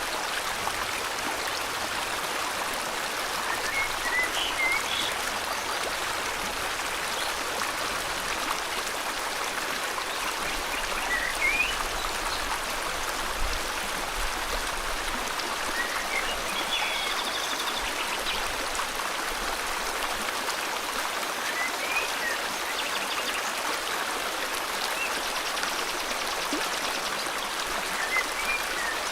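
River water flowing steadily, with short rising bird chirps every few seconds and a brief buzzy bird trill about halfway through.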